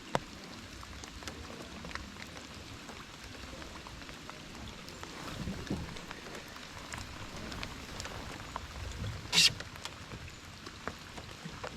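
Heavy rain falling, a steady patter of drops with scattered sharp taps. About nine and a half seconds in there is one brief, louder hiss.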